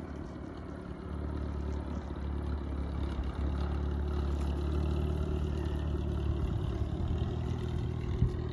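Aircraft engine noise: a low, steady rumble with a hum, growing louder about a second in and cutting off suddenly near the end.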